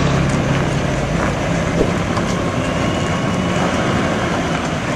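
A heavy truck's engine running steadily with road noise, and one short knock about two seconds in.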